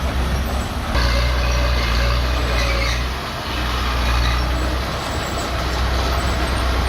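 Bulldozer's diesel engine running loud and steady under load, growing louder and harsher about a second in and easing briefly a little past the middle.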